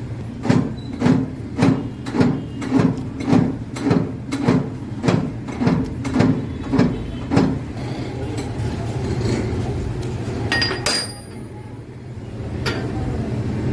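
A hammer striking metal in about a dozen evenly spaced, ringing blows, typical of driving a cylinder sleeve into a Massey Ferguson tractor engine block. The blows stop about seven seconds in, leaving a steady workshop hum with a couple of single clinks.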